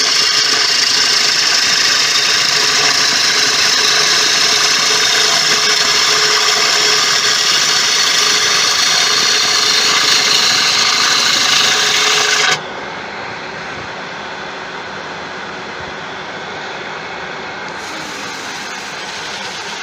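A turning tool roughing cut into a large tiger wood blank spinning on a Laguna 1836 wood lathe: a loud, steady cutting hiss with a ringing whine. About twelve and a half seconds in it drops suddenly to a quieter steady running noise.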